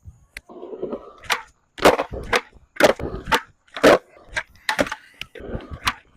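Skateboard on concrete: a string of sharp wooden clacks and slaps, about two a second from about two seconds in, with wheels rolling between them, as from repeated kickflip attempts.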